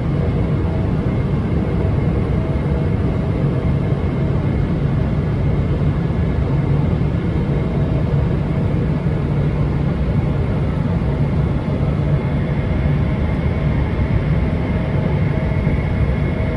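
Steady cabin noise inside a Boeing 777-300ER: an even low rumble of engines and airflow with a faint steady hum over it, unchanging throughout.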